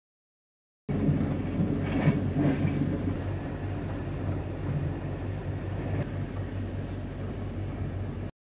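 Overnight sleeper train running, heard from inside a couchette compartment: a steady rumble with a low hum that starts abruptly about a second in, with a couple of faint clicks.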